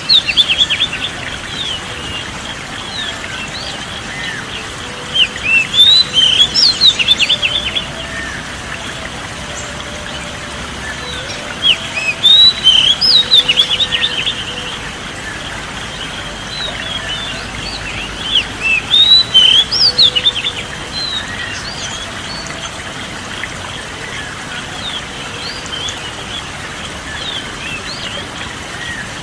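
A songbird singing in loud bursts of quick chirps and whistles, four phrases spaced several seconds apart, over a steady background hiss.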